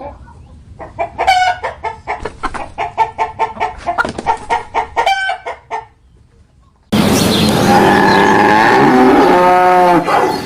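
Chickens clucking in a quick run of short calls. After a brief pause the sound cuts to a louder, noisier recording in which a rooster crows one long call.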